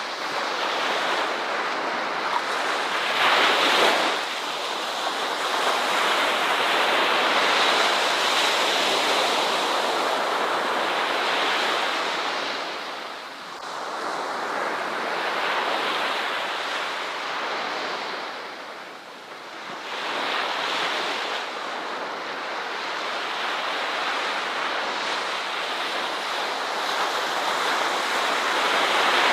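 Ocean surf: waves breaking and washing in, a continuous rushing that swells and ebbs, with one stronger break a few seconds in and lulls about halfway through and again near two-thirds of the way.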